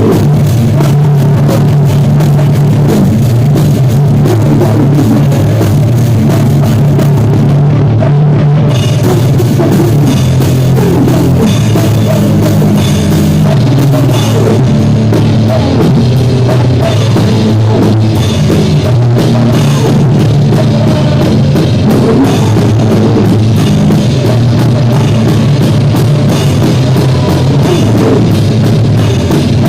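A rock band playing loud with drum kit, bass and electric guitar, with a steady beat throughout. The recording is distorted.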